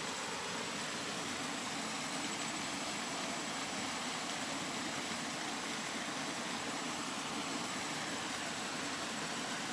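Steady rain, an even hiss with no separate drops or breaks.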